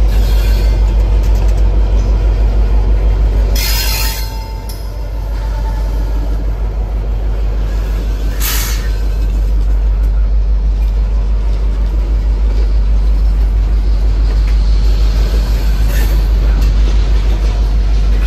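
Norfolk Southern freight train passing close: the diesel locomotive's low rumble, then tank cars rolling by with wheel noise on the rails. Short harsh noises cut through about four, eight and a half and sixteen seconds in.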